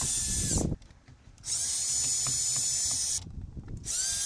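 Cordless drill driving out screws in short runs of high-pitched motor whine: one run ends just under a second in, a second runs for nearly two seconds, and a third starts near the end. The battery is about to run flat.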